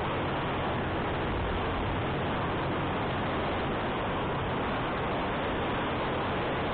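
Wind rushing over the microphone on a moving motorcycle, a steady roar of noise, with the motorcycle's engine running at an even pitch underneath.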